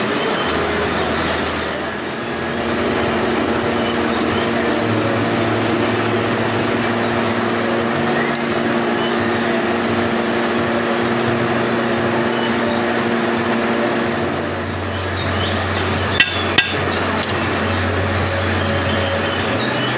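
Manual metal lathe running steadily, with two sharp metallic clicks in quick succession about three-quarters of the way through.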